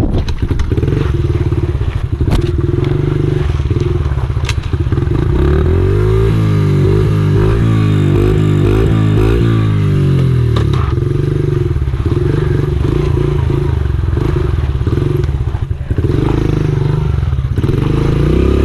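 Honda XR70R pit bike's small single-cylinder four-stroke engine running. It is revved up and down in quick repeated blips from about six to ten seconds in, and held steadier before and after. A few knocks and clatters sound in the first few seconds.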